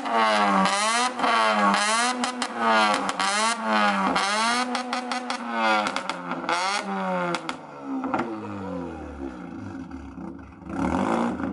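Mazda RX-8's rotary engine being revved in quick repeated blips, about two a second, then dropping back and settling toward idle near the end.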